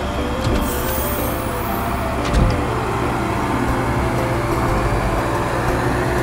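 Cartoon road roller's engine rumbling steadily as it rolls along, with one heavy thud about two and a half seconds in.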